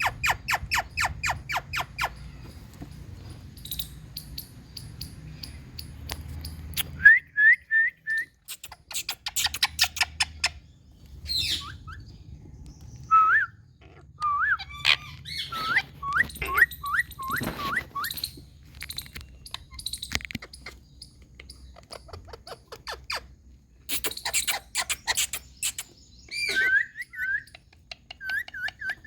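Indian ringneck parakeets calling. Fast runs of harsh chattering calls alternate with series of short hooked whistles, with a few louder bursts in between.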